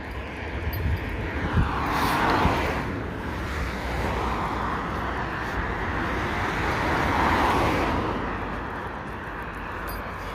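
Two road vehicles pass one after the other, each a rising then fading rush of tyre and engine noise, about two seconds in and again about seven seconds in. Wind buffets the microphone with a low rumble throughout.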